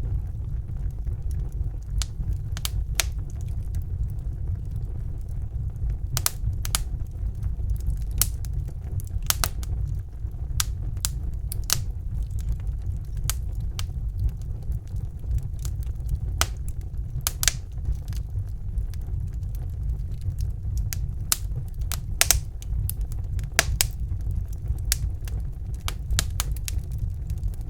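Wood fire crackling in a fireplace: irregular sharp pops and snaps, a few each second, some louder than others, over a steady low rumble.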